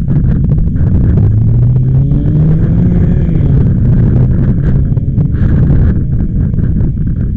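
Gusty wind buffeting the microphone with a loud, fluttering rumble. From about one to three and a half seconds in, a motor vehicle's engine hum rises gently in pitch under the wind and then fades.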